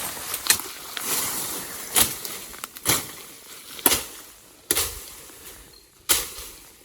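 Chopping into wood with a blade: six sharp strikes, roughly one a second.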